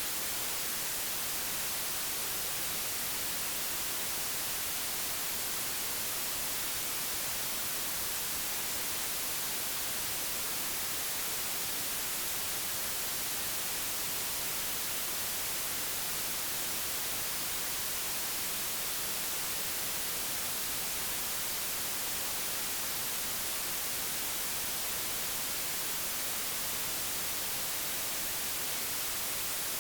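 Synthetic white noise, digitally generated, a steady even hiss with no change in level.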